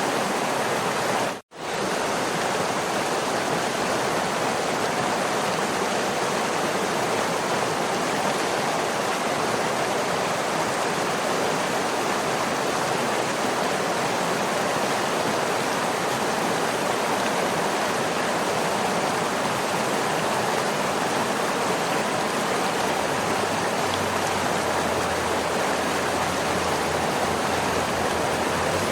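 Waterfall rushing steadily, a dense even hiss of falling water. It cuts out to silence for a moment about one and a half seconds in.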